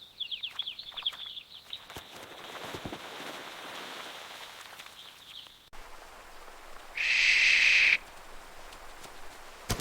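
Bird calls: a quick run of short, high falling chirps over a steady hiss, then about seven seconds in a single loud, harsh call lasting about a second.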